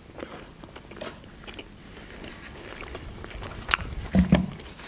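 Close-miked chewing of beef tongue wrapped in a lettuce leaf: crisp crunches and wet mouth clicks, with a few sharper, louder clicks near the end.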